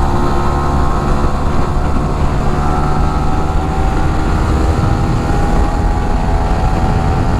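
Yamaha R15 V3's 155 cc single-cylinder engine running hard at high revs on the move, its stock exhaust modified with a wider inner pipe for a loud, bassy note. The pitch holds nearly steady.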